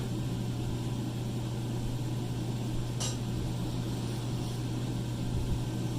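Steady low mechanical hum, with a single sharp metallic click about halfway through.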